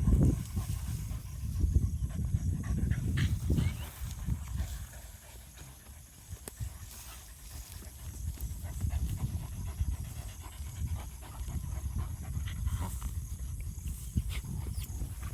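A dog panting hard while digging, with scattered short scrapes and clicks of paws in earth.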